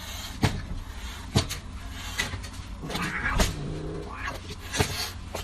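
A cat making a short, low meow about three seconds in, with a few sharp knocks or clicks scattered around it.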